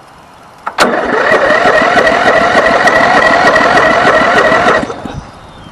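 Old lawn tractor's electric starter cranking the engine: a click, then about four seconds of fast, even cranking with a wavering whine, cut off abruptly without the engine catching. The engine has sat unrun since the previous year.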